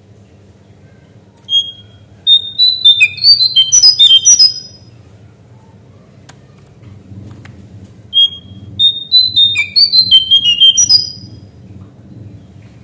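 Lesser shortwing (cingcoang coklat) singing two fast phrases of clear, high whistled notes that jump up and down in pitch. Each phrase lasts about three seconds, and they come a few seconds apart over a steady low hum.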